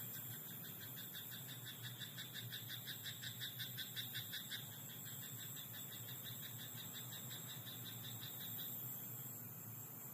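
Frog in a rice paddy croaking in a long, rapid string of evenly repeated pulsed calls, about four a second, loudest a couple of seconds in and dying away near the end, over a steady high hiss.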